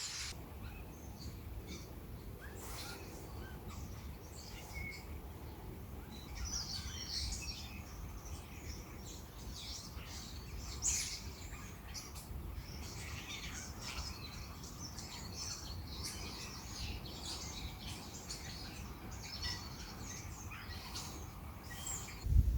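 Several birds calling and chirping, with many short, scattered calls and one louder call about halfway through, over a steady low rumble.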